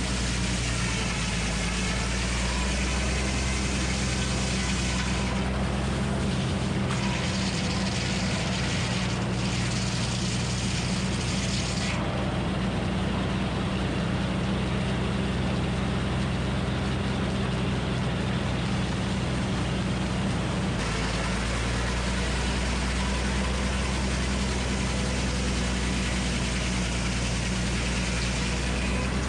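Minneapolis Moline HEB 605 cubic-inch engine running the Frick circular sawmill, a steady deep engine hum with a constant hiss above it. The low engine tone shifts about six seconds in and returns to its first sound about twenty-one seconds in.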